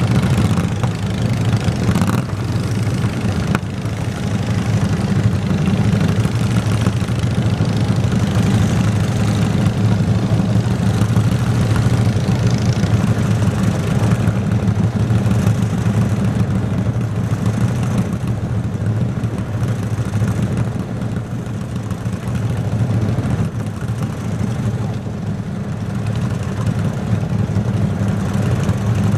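Garden tractor engine running steadily at an even, low pitch.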